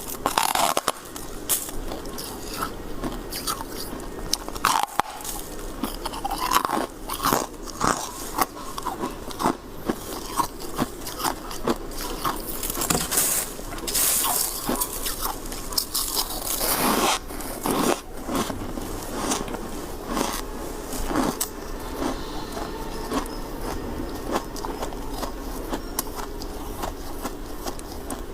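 A person biting and chewing white frozen ice close to the microphone: a dense run of irregular crisp crunches and crackles, with a few louder, longer crunches about halfway through.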